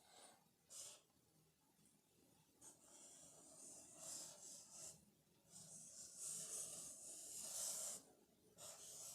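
Faint marker pen strokes on a whiteboard: scratchy, squeaky drawing strokes of uneven length, a short one about a second in and longer drawn-out ones through the middle and near the end.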